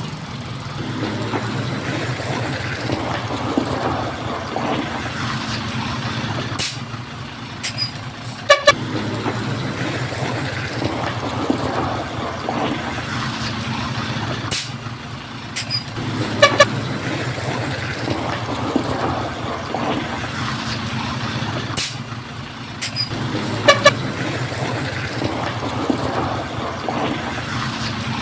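Heavy construction machinery's diesel engine running steadily under load. Sharp clicks and short ringing clanks or beeps come in pairs, repeating about every seven to eight seconds.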